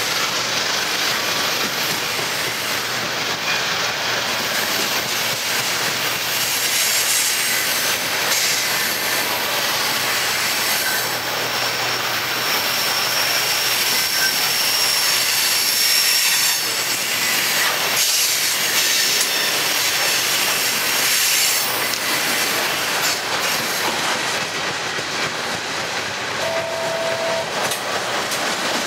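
Coal train's hopper cars rolling past close by: a steady clatter of steel wheels on the rails, with a faint high wheel squeal near the middle.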